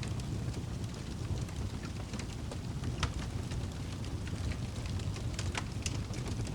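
Fire in a fireplace crackling: a low steady rumble of flames with scattered sharp pops, the strongest about three seconds in.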